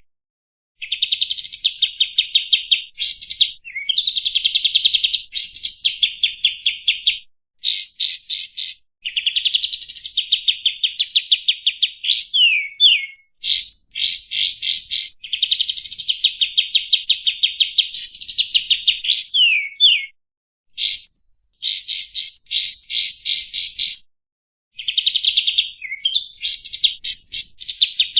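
Kapas tembak bulbul singing a long run of fast trilled phrases made of rapid repeated notes, broken by sharp upward-sweeping whistles and short pauses between phrases.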